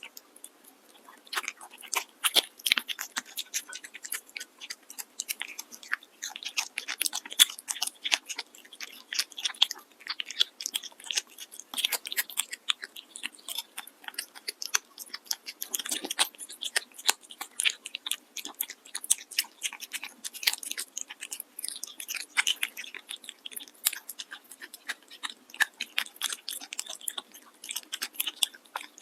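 A cat chewing and crunching food close to the microphone: rapid, irregular crunching bites, several a second, with brief pauses.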